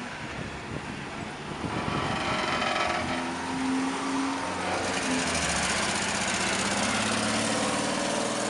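A car engine running, growing louder about two seconds in and staying loud, with a steady hum underneath.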